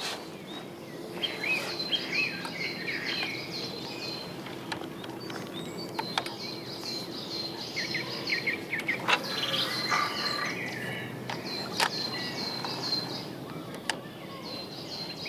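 Outdoor birdsong: bouts of rapid, evenly repeated high chirps, with other birds giving short whistled and warbled notes. A few sharp clicks sound over a steady low background hum.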